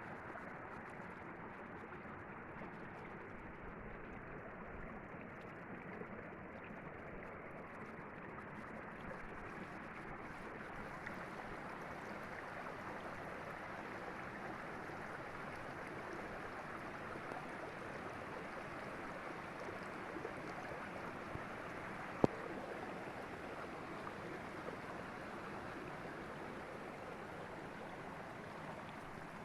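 Derna River water flowing: a steady, even rush of running water. One sharp click sounds about three-quarters of the way through.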